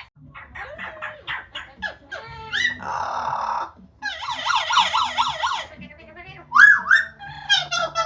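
Amazon parrot calling: a run of short chirps and whistles, a rising whistle, a harsh squawk, then a fast up-and-down warbling trill, and more whistled notes near the end.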